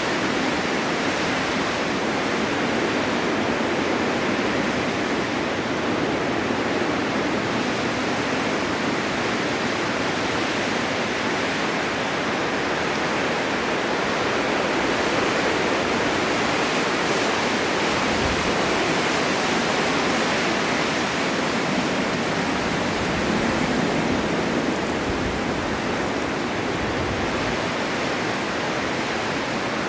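Strong winter wind blowing steadily in a snowstorm, a dense even rush of noise that swells and eases slowly.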